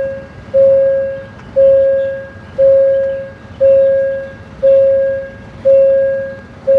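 Railway level-crossing warning bell ringing about once a second, each ring a single tone that fades before the next.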